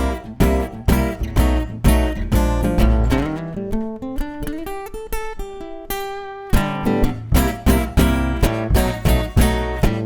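Live band in an instrumental break, led by a strummed acoustic guitar. About halfway a rising run of notes thins the playing briefly, then the full strumming comes back in.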